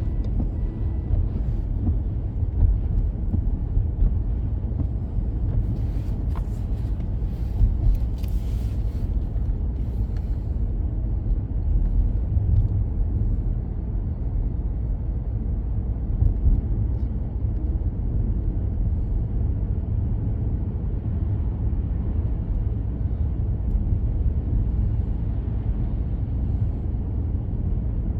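Car driving on the road, heard from inside the cabin: a steady low rumble of tyres and engine. A brief faint crackle comes about six seconds in.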